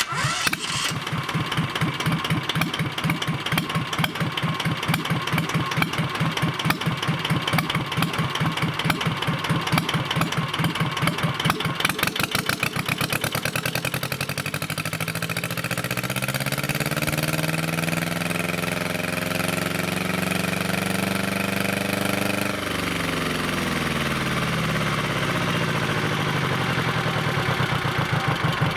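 Yanmar 2GMFY two-cylinder marine diesel starting and idling with a rapid, even beat. About halfway through it is revved up steadily, held at higher speed for several seconds, then the throttle is dropped and it falls back to idle.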